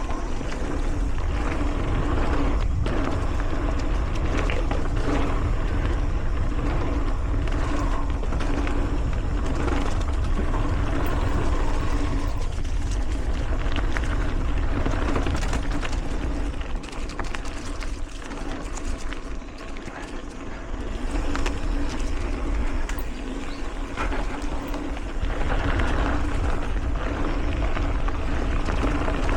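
Mountain bike riding over dirt singletrack: tyres rolling over dirt and rocks, the bike rattling and knocking over bumps, with a heavy low rumble of air rushing over the microphone. It eases for a few seconds past the middle, then picks up again.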